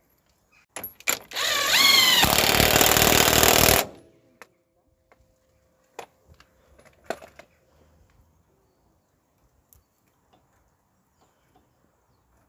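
A power tool runs in one burst of about two and a half seconds, its whine rising as it spins up, then holds steady and stops abruptly. A few sharp metallic clicks come before and after it.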